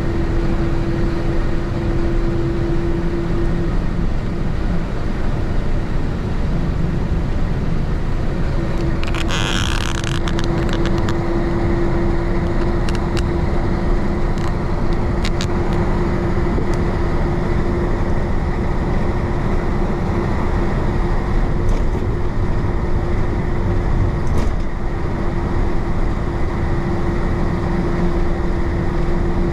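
Isuzu BXD30 bonnet bus's DA640 diesel engine running steadily under way, with a steady hum that fades out for a few seconds and comes back. A brief hiss about nine seconds in.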